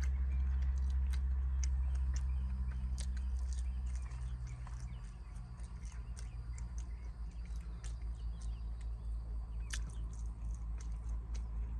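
Close-up chewing of crispy fried chicken, with many short crunches and mouth clicks scattered throughout. Under it, a low rumble of an airplane passing overhead, fading after about four seconds.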